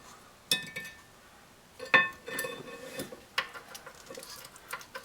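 Steel bolts and a wrench clinking as they are handled: a handful of sharp metallic clinks with a short ring, the loudest about two seconds in, with lighter clinks between.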